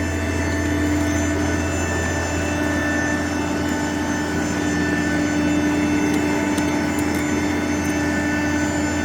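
Steady jet airliner noise: a low drone with several steady whining tones above it, unchanging in level.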